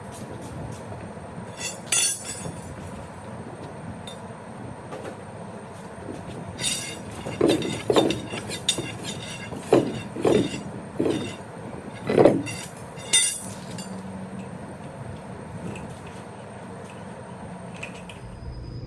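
Metal clanking and clinking from tire tools and steel wheel parts: one sharp knock about two seconds in, then a run of about ten short, ringing metal knocks in the middle.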